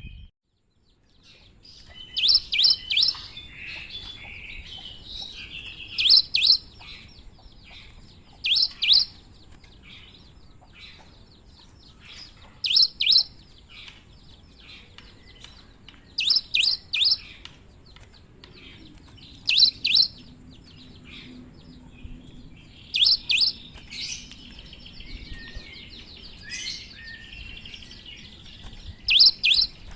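Cinereous tit singing: short phrases of two to four sharp, high notes repeated every three to four seconds, with softer twittering in between.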